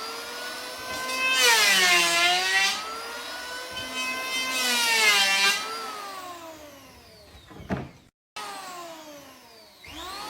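An engine revving, its pitch climbing and falling back several times, with a brief dropout about eight seconds in.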